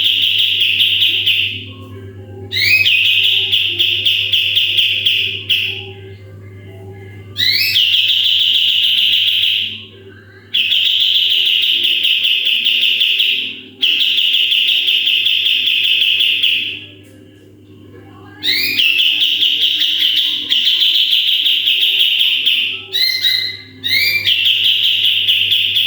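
Kapas tembak songbird singing its loud 'tembakan' bursts: about seven high-pitched phrases of two to three seconds each, each opening with a quick upward sweep into a fast, dense chattering trill, with short pauses between them. A faint steady low hum lies underneath.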